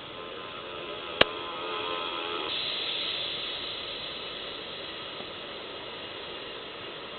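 Airbus A321 jet noise while landing: a steady rushing hiss with a faint whine that fades out a couple of seconds in, as the rushing swells and then eases. A sharp click comes about a second in.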